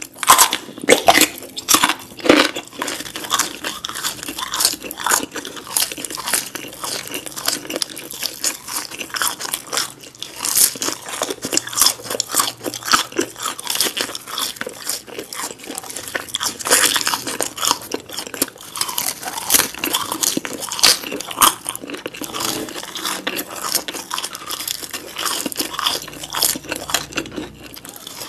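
Close-miked biting and chewing of fried potatoes: seasoned curly fries and French fries, with a steady, irregular crunching.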